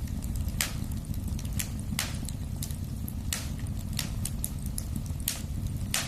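Fire burning in a fireplace: a steady low rumble of flames with sharp crackles and pops, five louder pops about a second apart and fainter ticks in between.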